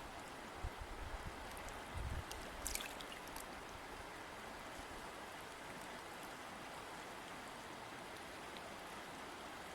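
River water flowing in a steady, even rush. A few low thumps come in the first three seconds, and a brief high tick about three seconds in.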